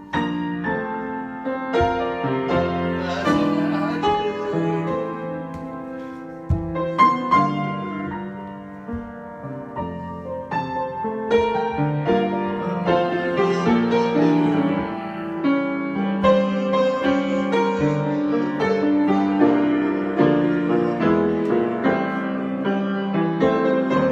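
Solo piano improvisation: held chords in the middle and low range under a melody of struck notes, played without a break.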